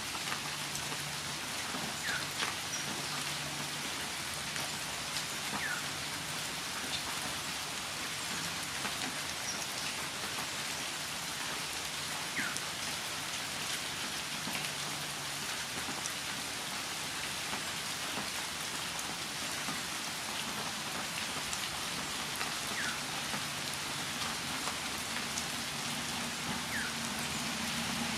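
Steady rain falling and pattering on surfaces, with a few brief, faint high notes scattered through.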